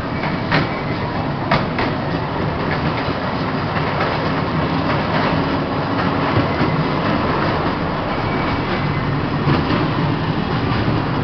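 Train running on its track: a steady rumble and rattle from the wheels and car, with a few sharp clicks about half a second and a second and a half in.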